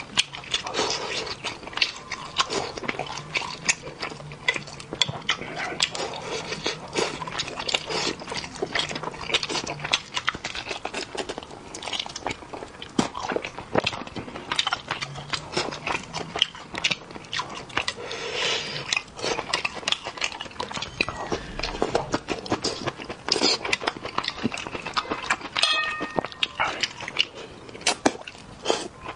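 Close-miked eating of braised fish: a steady run of wet chewing, lip smacks and small clicks right at the mouth.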